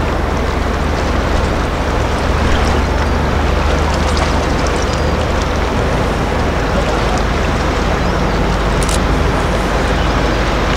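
Large cruise ship under way, a constant low engine drone beneath a steady rushing noise of wind and water.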